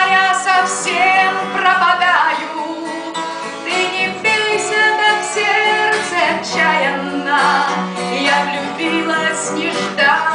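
A woman singing a Russian song with instrumental accompaniment.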